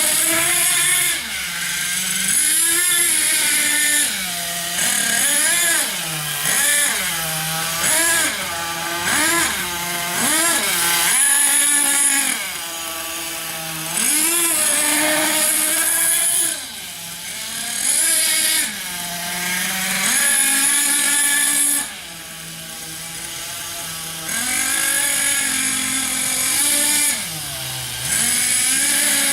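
Small nitro engine of a Thunder Tiger MTA4 radio-controlled monster truck running hard. Its high, buzzing note rises and falls over and over with the throttle as the truck drives about, and drops back in two quieter spells, about halfway and about three quarters of the way through.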